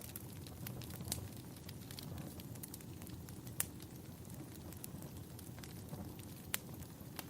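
Wood fire crackling in a fireplace: a steady low rumble of burning with scattered sharp pops, two louder snaps about halfway through and near the end.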